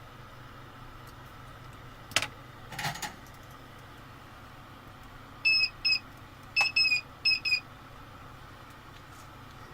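Six short, high electronic beeps in quick pairs, over a steady hum. A click and a brief rattle come before them.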